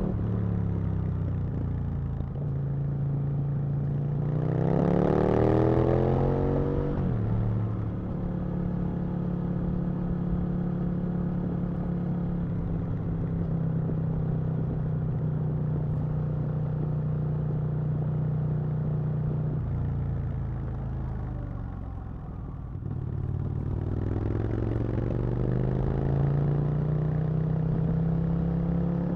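Aprilia RSV Mille's V-twin engine under way: it climbs in pitch under acceleration about four seconds in, drops sharply about seven seconds in, holds a steady pitch, falls off on a closed throttle a little after twenty seconds, then climbs again near the end.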